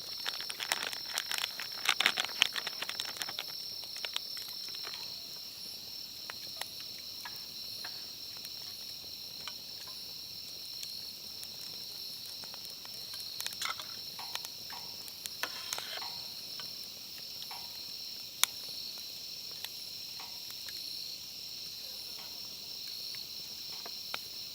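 Insects trilling in a steady, continuous high-pitched chorus. Scattered sharp clicks and taps sound over it, thickest in the first few seconds, with a single sharper click about two-thirds of the way through.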